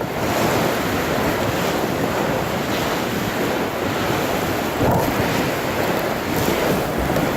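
Wind blowing through the treetops in a snowstorm, a steady rushing that cuts off suddenly near the end.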